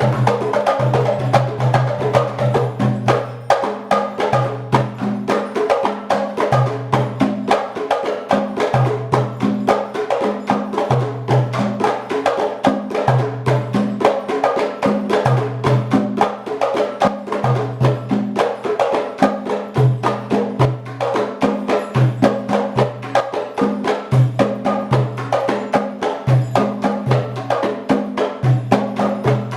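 Afro-Cuban percussion ensemble playing a fast, dense rhythm: sharp wooden clicks and strikes over a low drum tone that repeats in short groups.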